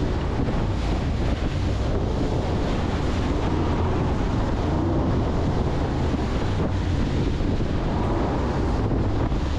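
Wind buffeting the microphone and water rushing past a jet boat running at speed, a steady, unbroken roar.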